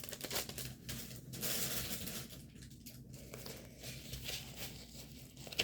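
Plastic packaging of a diamond painting kit crinkling and rustling as it is handled.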